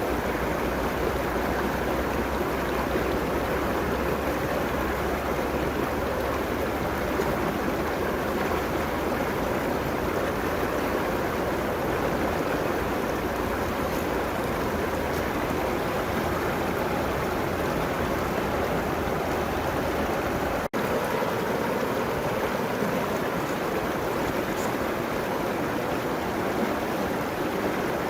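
River water rushing steadily along its banks, an even, continuous flow. About three quarters of the way through the sound cuts out for a split second, and the low rumble underneath is weaker after it.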